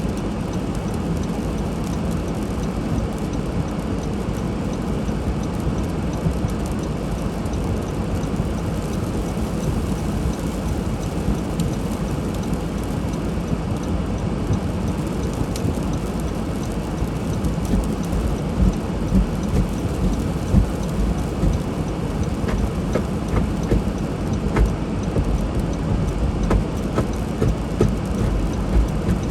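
Steady low rumble and road noise of a car driving on a snowy road, with small irregular bumps and knocks in the last third.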